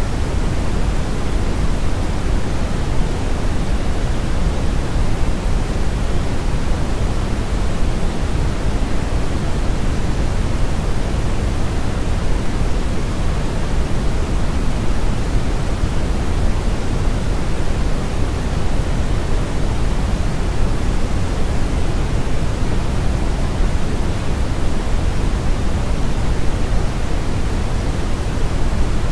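Brown noise: a steady, unchanging rumble-like hiss, strongest in the low end with the highs rolled off. It runs without any change in level or character.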